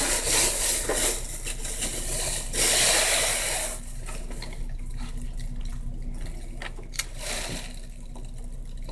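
Rustling and handling noise for the first few seconds, then quieter light clicks and taps, the sharpest about seven seconds in.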